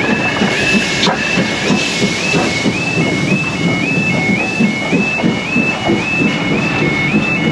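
Train running with a rhythmic low rumble, under a two-note electronic alarm tone that repeats about twice a second.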